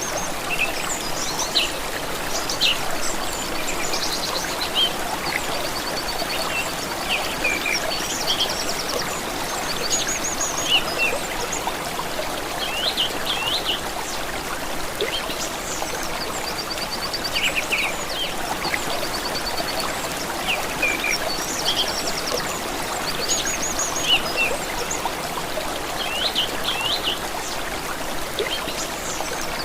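Water running steadily in a stream, with several birds singing over it in short chirps and quick repeated trills.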